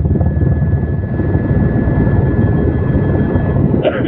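Helicopter running, its rotor beating fast and low with a steady high whine over it.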